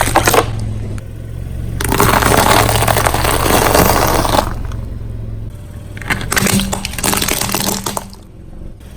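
Car tyre rolling over objects and crushing them: sharp cracks at the start, then a dense stretch of crunching from about two to four and a half seconds in, and scattered smaller cracks later. A steady low hum from the car's engine runs underneath.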